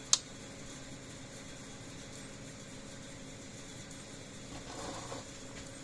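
A single sharp click as the fence charger's on-off switch is turned on, followed by a faint steady hum.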